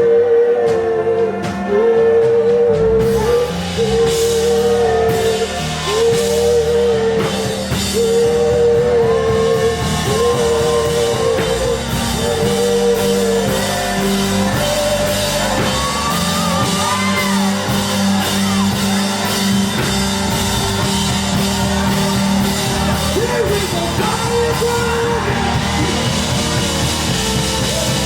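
Live worship band music with singing: a short sung phrase repeats over the band, and the drums come in fully about three seconds in.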